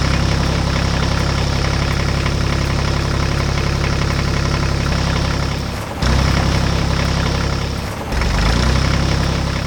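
Heavy construction machine's engine sound effect running steadily with a fast, even chugging rumble. It dips and picks up again about six seconds in, and again about eight seconds in.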